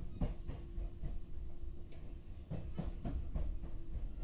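Kintetsu 6407-series electric train running, heard from inside the passenger car: a steady rumble and hum, with the wheels clacking over rail joints, a pair soon after the start and a quicker run of clacks a little past halfway.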